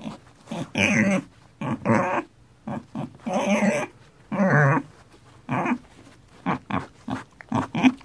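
Domestic pig grunting over and over as it roots in mud, a dozen or so rough grunts of uneven length coming at irregular intervals.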